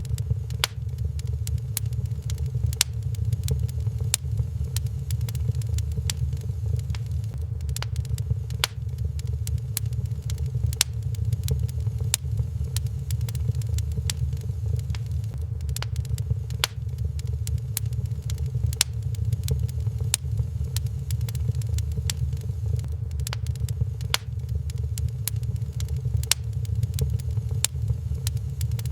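Wood fire crackling in a fireplace: irregular sharp pops and snaps, several every second, over a steady low rumble.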